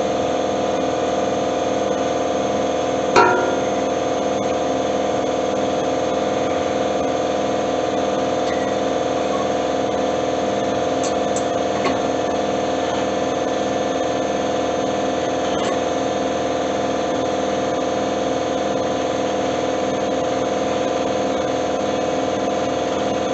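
Steady machine hum at an even level, with one sharp ringing clank about three seconds in and a few faint clicks later, as tools work on the mower's steel.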